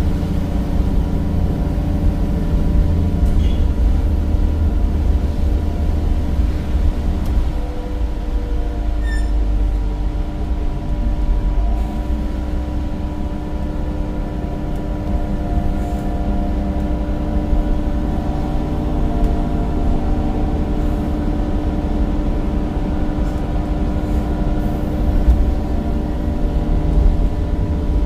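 Interior of a bus on the move: its Cummins diesel engine gives a steady low rumble, and the ZF automatic gearbox and driveline add a whine that slowly rises and falls in pitch. There are a few faint rattles and clicks.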